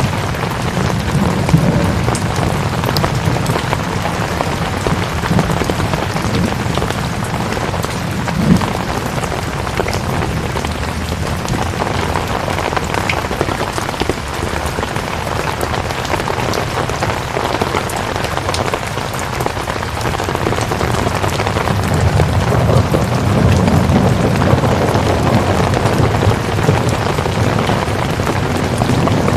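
Steady heavy rainfall with a dense patter of drops, and a low rumble that builds near the end.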